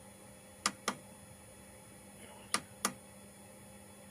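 Two pairs of sharp plastic clicks, each pair about a quarter second apart, like a button pressed and released, over a faint steady electrical hum.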